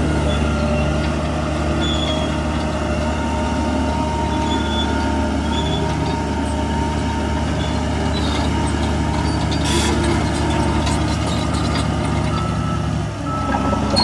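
Heavy diesel earthmoving machinery running steadily under load, with a short hiss about ten seconds in and a brief dip in engine note shortly before the end.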